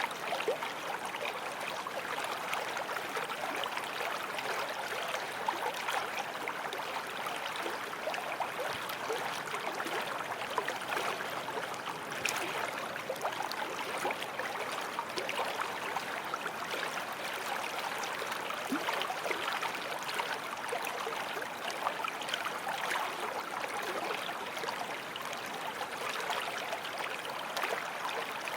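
A small forest stream flowing and babbling steadily over stones, a continuous splashy rush of water.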